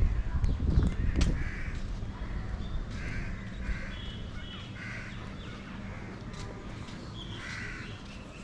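A bird cawing over and over, short harsh calls every half second to second. A low rumbling noise sits under the calls in the first second or so.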